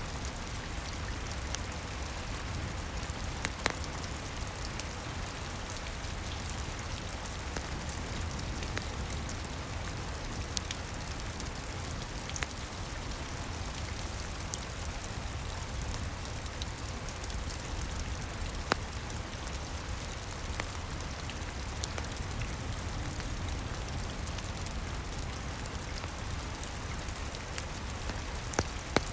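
Steady rain falling on a roof and window, with a few sharp crackles and pops from a wood fire scattered through it.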